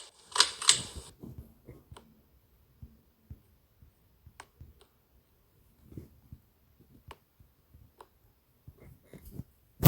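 Harbor Breeze Armory ceiling fan just switched to low speed, mostly quiet, with scattered faint, irregular light clicks and one sharper click near the end.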